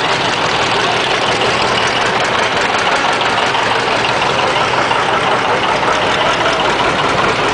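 Tractor engines idling and running steadily.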